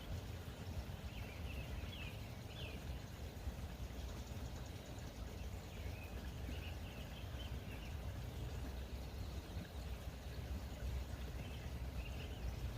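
Outdoor ambience: a steady low rumble with three short groups of faint bird chirps.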